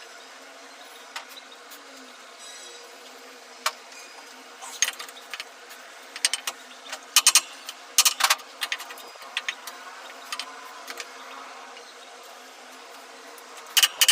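Hand tools clinking and tapping on metal machine parts during repair work: scattered sharp clicks at irregular intervals, thickest in the middle, over a faint steady background hum.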